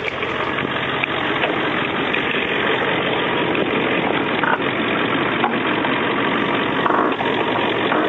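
2001 Ford F-250 Super Duty's Power Stroke diesel V8 idling steadily just after a cold start, with the engine pre-warmed by its oil heater.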